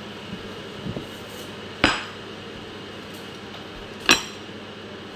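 Two sharp clinks of kitchenware knocked together, about two seconds apart, the second ringing, with a fainter knock before them, over a steady background hum.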